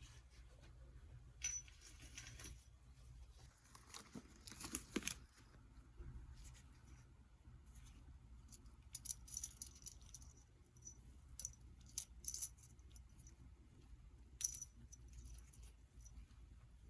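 Small metal tools and bicycle parts clinking and tapping against each other as they are handled, in scattered quiet clicks with a few sharper metallic clinks that ring briefly.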